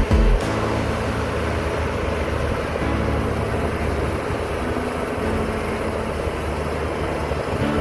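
Heavy diesel engine of earthmoving machinery running steadily at an even, low pitch.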